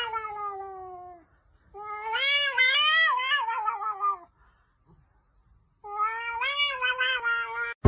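A cat yowling: three long, drawn-out meows with short pauses between, the first sliding down in pitch and the second wavering up and down.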